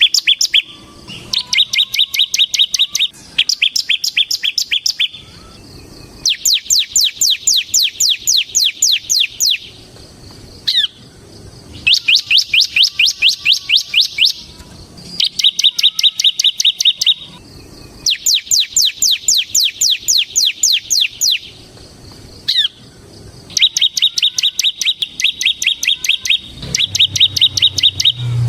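Ciblek semi, a prinia, singing its rapid drilling song. Phrases of two to four seconds of quickly repeated sharp notes alternate with buzzier trills, with short pauses between phrases.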